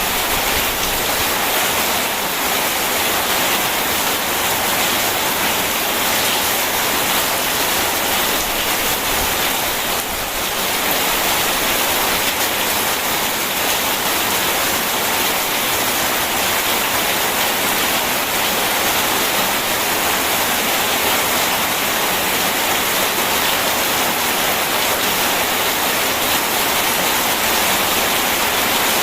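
Steady rushing of a river mixed with steady rainfall, an even wash of water noise with no distinct drops or thunder.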